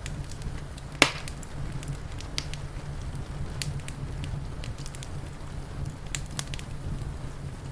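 Wood fire crackling with scattered sharp pops, one much louder snap about a second in, over a steady low rumble.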